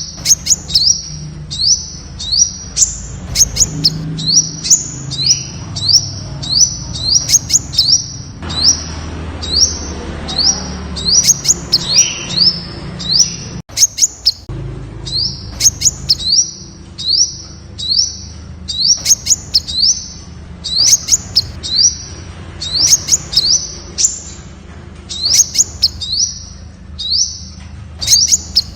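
Temminck's sunbird calling: a long, rapid series of short, high, sharp chip notes, about two to three a second.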